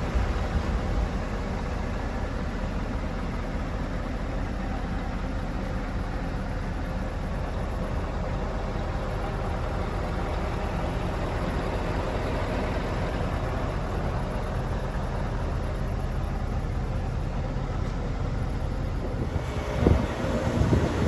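Scania R730 truck's V8 diesel engine running steadily, with a couple of short knocks near the end.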